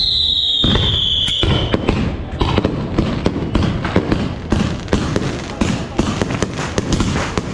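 Fireworks going off in a rapid, dense string of pops and bangs. In the first two seconds a high whistle slides down in pitch.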